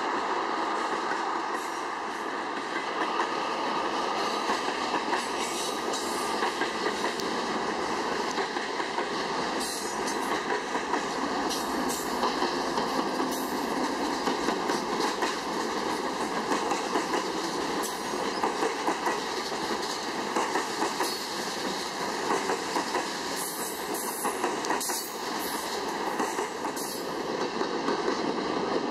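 Canadian National freight train passing at close range: a steady rumble of steel wheels on rail with clickety-clack and scattered sharp clicks as tank cars, a mid-train GE ES44DC distributed-power diesel locomotive and boxcars roll by.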